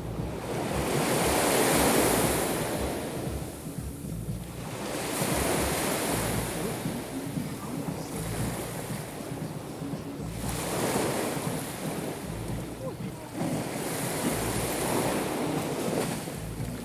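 Sea waves breaking on the shore, surging in and drawing back every few seconds, with wind buffeting the microphone.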